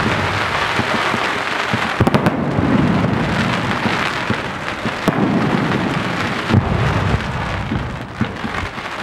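Fireworks: a steady hissing, crackling rush from ground fountains spraying sparks, under low booming rumbles from aerial shells bursting overhead. There are sharp bangs about two seconds in and again about five seconds in.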